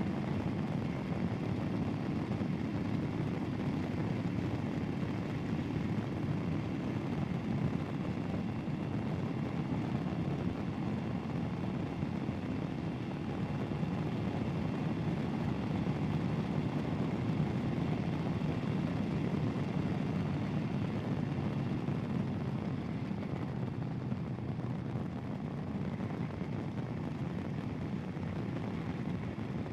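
Royal Enfield Himalayan's single-cylinder engine running steadily as the motorcycle cruises along.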